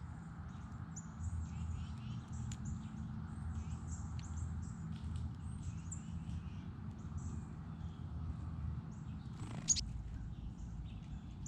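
Many small birds chirping, short high chirps overlapping throughout, over a steady low rumble. A single sharp tap near the end is the loudest sound.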